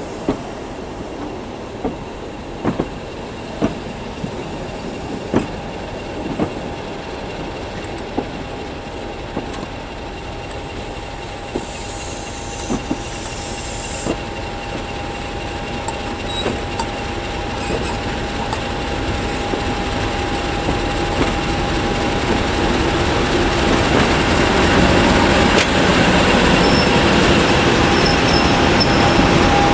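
A train of coaches passing slowly and close by, its wheels clicking over rail joints, with a steady thin whine. Over the last ten seconds the sound swells as the Class 50 diesel locomotive, with its English Electric 16-cylinder engine, comes level.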